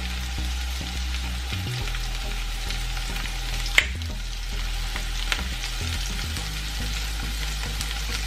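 Diced zucchini sizzling steadily in hot olive oil in a nonstick frying pan, with a couple of sharp clicks near the middle.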